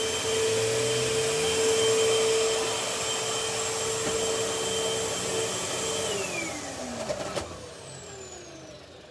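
Vacuum cleaner motor running with a steady whine, then switched off about six seconds in, its pitch falling as the motor winds down. A single knock comes shortly after.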